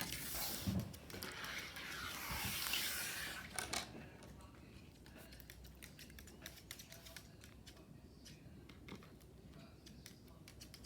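Rustling for about the first four seconds, then a run of small, irregular taps and clicks as small objects are handled and set down on a tabletop.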